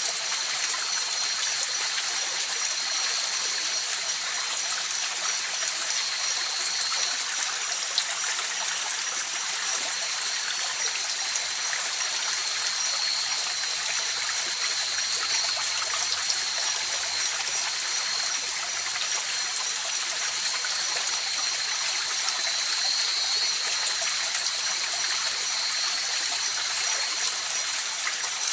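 A river's water rushing and trickling steadily, a continuous hiss without breaks. Two steady high-pitched tones run above it throughout.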